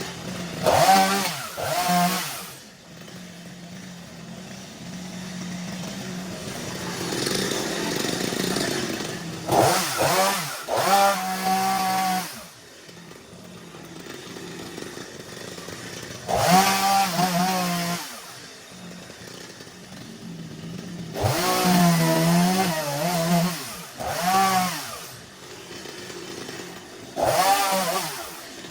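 Chainsaw engine revving in about five bursts, each climbing in pitch and falling back to a lower, quieter idle between them, as in cutting overgrowth.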